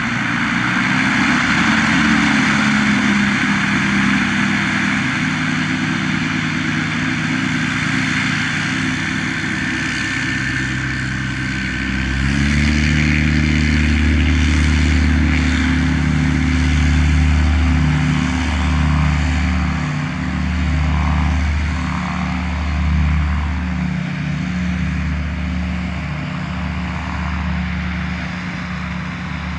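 Blackshape Prime light aircraft's piston engine and propeller running steadily. About twelve seconds in, the sound changes and a deeper, louder drone takes over.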